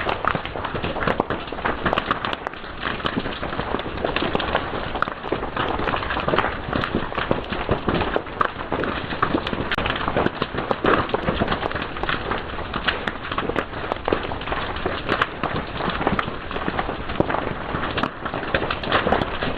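Fire crackling and popping steadily, with dense irregular snaps over a continuous hiss.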